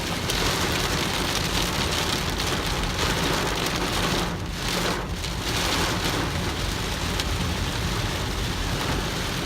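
Heavy rain pelting a moving car, heard from inside the cabin as a dense, steady hiss over the low rumble of the car on the road.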